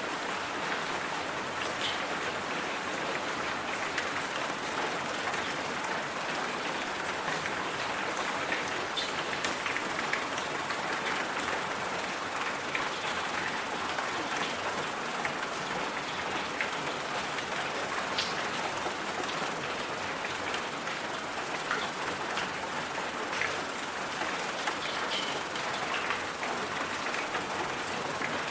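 Steady hiss of rain, strongest in the middle-high range, with scattered light drop-like ticks throughout.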